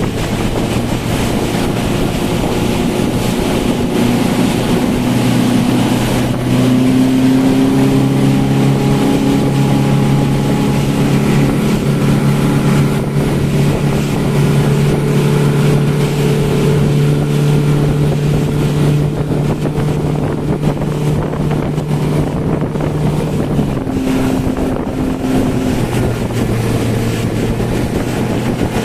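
Speedboat engine running steadily over the water, climbing in pitch a few seconds in as it speeds up and falling back near the end as it slows, with wind buffeting the microphone.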